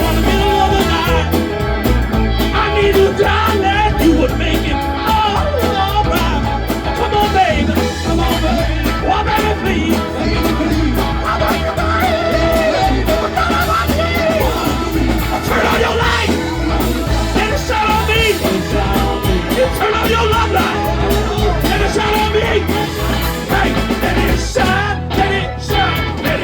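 Live rock band playing, with singing.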